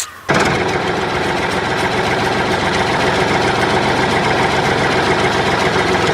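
A small DC electric motor, of the kind fitted to toy tractors and mini water pumps, switches on about a third of a second in and runs with a steady buzz.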